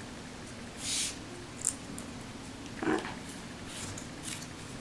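Scissors trimming paper and paper being handled: a few short, separate scratchy sounds, the strongest about a second in, over a faint steady hum.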